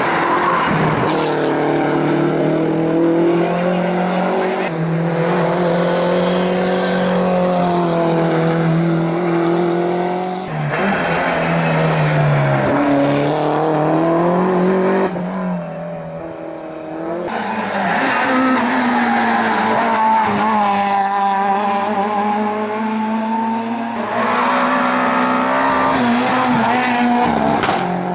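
Hillclimb race cars at full throttle, engines revving up and falling back through the gear changes, with tyre squeal. The sound switches abruptly several times as one car gives way to the next, with a briefly quieter stretch in the middle.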